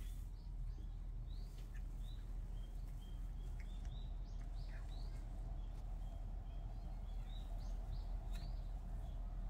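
Small birds chirping now and then, short high chirps and a repeated short note, over a steady low background rumble.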